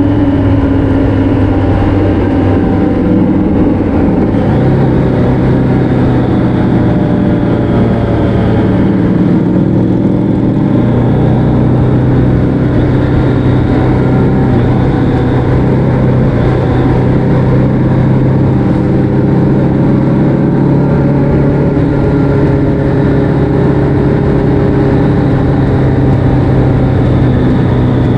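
Motor vehicle engine running steadily at cruise, with its pitch stepping up slightly about four seconds in, over steady road noise.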